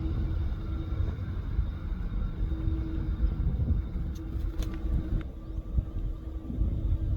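Steady low rumble of distant aircraft engines with a held hum, and a few faint clicks about four to five seconds in.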